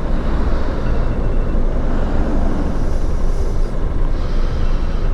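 Strong wind buffeting the camera's microphone on a moving motorcycle, a steady low rushing, with the motorcycle's engine and road noise underneath.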